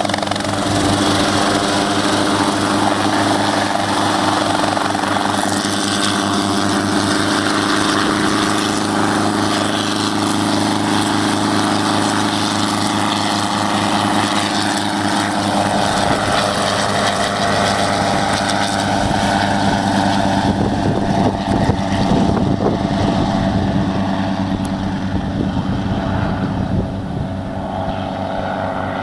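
Helicopter running: a steady engine and rotor hum. About halfway through, a heavier, rapid rotor beat comes in for several seconds, then eases.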